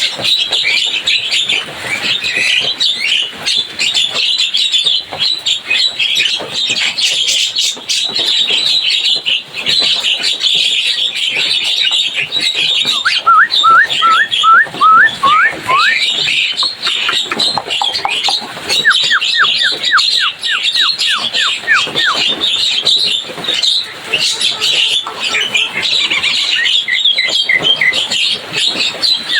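Javan myna chattering loudly and without a break, a busy stream of harsh notes. A little before halfway, again a few seconds later, and near the end, it breaks into runs of quick, evenly repeated down-slurred whistles.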